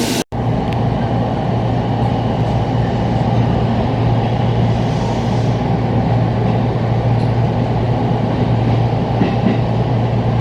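Inside the passenger car of a JR East commuter train running along the track: a steady low rumble and hum with rail noise. The sound cuts out completely for a split second just after the start.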